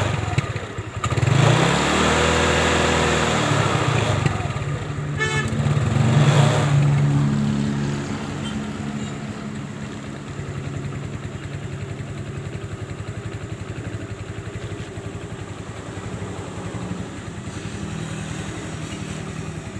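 Motorcycle engine revved for several seconds, rising and falling in pitch, then settling to a steady, quieter idle about eight seconds in; its rear tyre is spinning a car alternator pressed against it for a charging test. A short rapid ticking comes midway through the revving.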